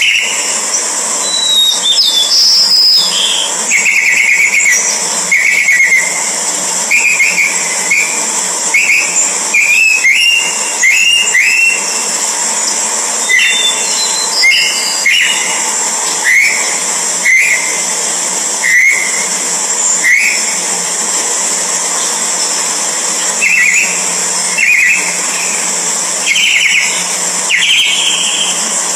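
Orange-headed thrush giving short chirping calls, about one a second with brief pauses, over a steady high hiss.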